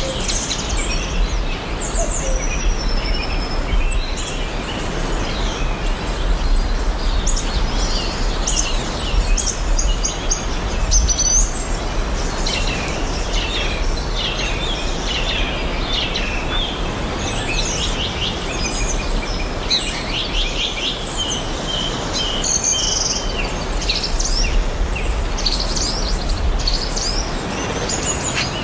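Several wild songbirds chirping and trilling, overlapping one another, over a steady background hiss and a low rumble.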